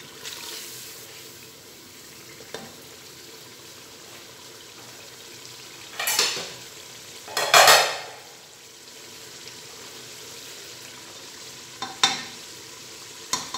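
Chopped tomatoes and spices frying in oil in an aluminium pressure cooker with a steady low sizzle. A wooden spoon scrapes and stirs against the pot in a few short strokes, the loudest about halfway through. This is the bhunai stage: the masala is frying until the tomatoes go soft.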